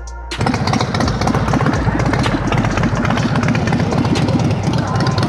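An engine running loudly with a rapid, rough exhaust pulse, cutting in abruptly about half a second in as background music stops.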